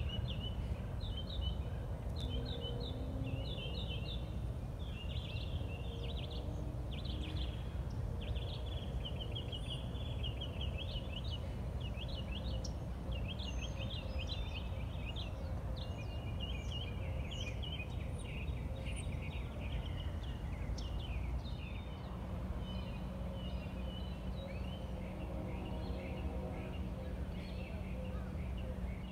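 Small birds chirping and singing in rapid runs of short notes, over a steady low rumble.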